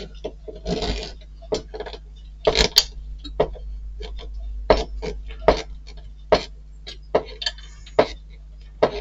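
Small metal screws and model-kit parts clicking and clinking as they are handled and set down on a hard surface, about a dozen separate clicks, with a few brief rustles in between.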